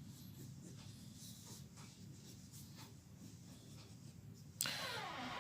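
Faint scratching of a pencil on paper in short repeated strokes as a drawing is sketched, then a louder rushing noise near the end.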